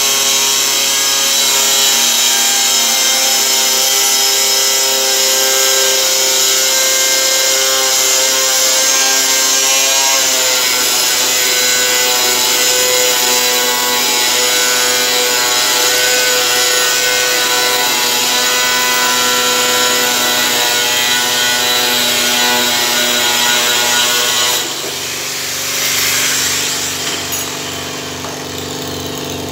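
A motor-driven power tool running steadily with a sawing, grinding whine. It eases down suddenly near the end and runs on more quietly.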